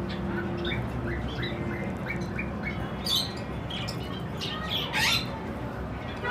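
Budgerigars chattering: a quick run of short rising chirps, then harsher squawks about three and five seconds in.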